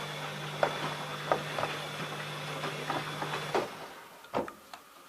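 ELIN A 100 E washing machine running with a steady hum and irregular clicks and knocks. About three and a half seconds in the motor stops, followed by a louder single clunk.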